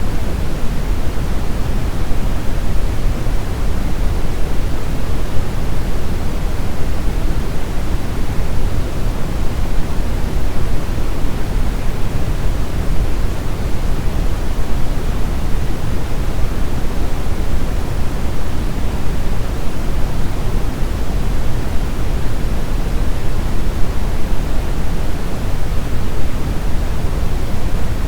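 Steady brown noise: an even, deep rushing hiss, heaviest in the bass and fading toward the highs, with no change or break.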